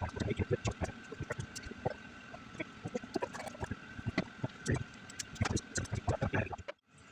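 Irregular clicks and knocks, several a second and uneven, over a faint steady high-pitched tone; they cut off abruptly near the end.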